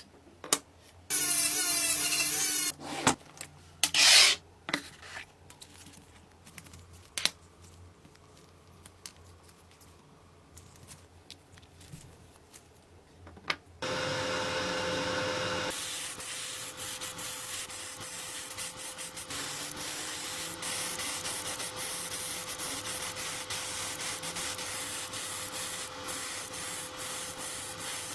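Workshop work noises: short bursts of hiss and a few sharp knocks, then from about halfway a steady rubbing, sanding-like noise with a faint steady hum under it.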